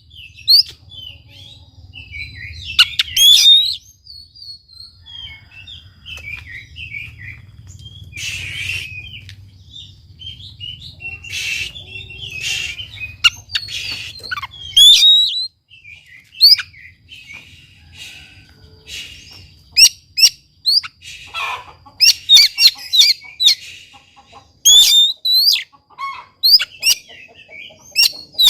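Oriental magpie-robin (kacer) singing loud, varied phrases of sharp rising whistles and quick chattering notes, in bursts with short pauses. A faint low hum runs underneath and stops about halfway through.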